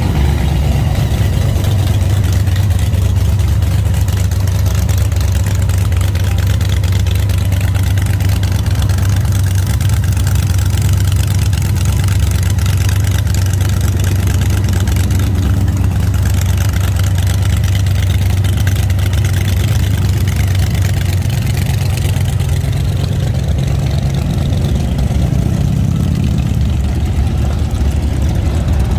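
Motorcycle engines running and idling in a steady loud low rumble.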